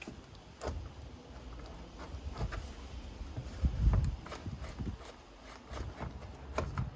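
Irregular clicks, knocks and rubbing as a stuck part inside an opened iMac is wiggled and pulled against what still holds it, with a heavier knock about four seconds in.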